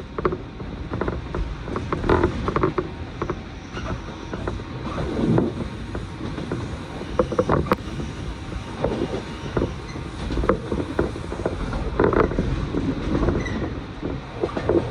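Passenger train running, heard from inside the car: a steady low rumble with frequent irregular creaks and rattles from the car body.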